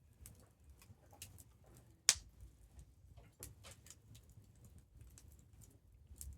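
Wood campfire crackling, with scattered small pops and one sharp, loud pop about two seconds in, over a low rumble.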